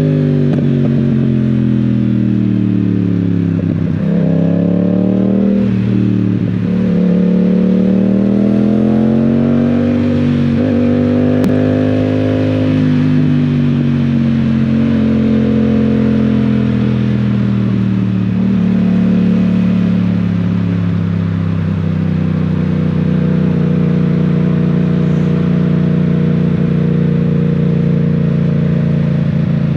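Yamaha Tracer 700 / MT-07's 689 cc parallel-twin engine, heard on the move. The engine note falls as the bike slows, then changes pitch briefly through a few gear changes. It rises under acceleration, eases off, and settles to a steady cruise over a constant hiss of wind and wet road.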